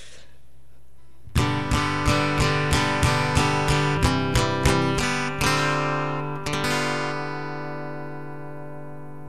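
Acoustic guitar strummed in a quick run of chords, about three strums a second, starting about a second in. Near the end a last chord is left to ring and fade.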